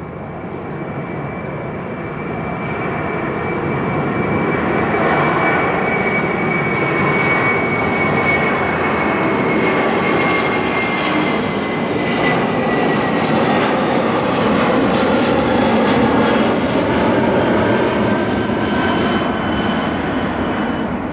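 Airbus A330-300 jet engines at takeoff power, growing louder over the first few seconds and then holding steady. A high whine over the engine noise slowly falls in pitch as the airliner goes by.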